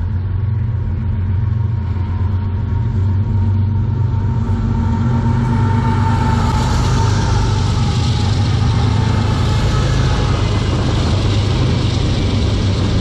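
CN freight train diesel locomotives running as they approach and pass close by, a deep engine drone with a faint whine that drops slightly as they go past. About six seconds in, the clatter and rumble of the hopper cars' wheels on the rails builds and carries on.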